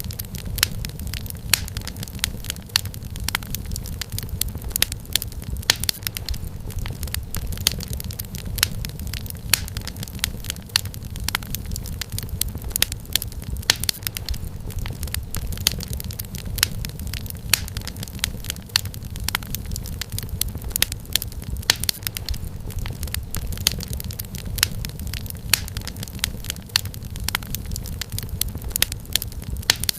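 Wood fire crackling in a fireplace: a steady low rumble of flames under frequent irregular snaps and pops.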